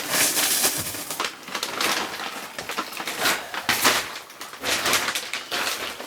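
Irregular rustling, scraping and knocking of things being handled and moved about.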